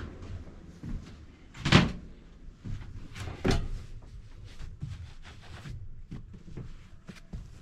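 A series of knocks and clunks, like doors or fittings being moved, inside a train compartment. The two loudest knocks come at about two seconds and three and a half seconds in, with lighter clicks between them.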